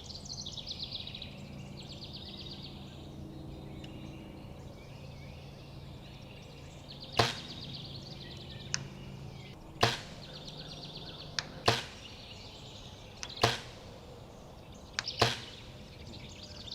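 Compound bow shots: five sharp releases about two seconds apart, several followed about a second and a half later by a fainter smack of the arrow striking the distant target. Faint bird or insect chirping underneath.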